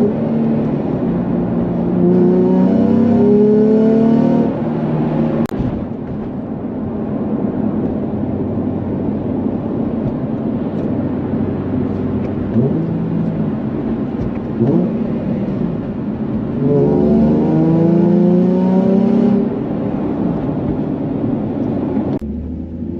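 Nissan Fairlady Z's engine running through an aftermarket exhaust, revving up twice for a couple of seconds each, rising steadily in pitch and then dropping back, with a steady engine drone in between.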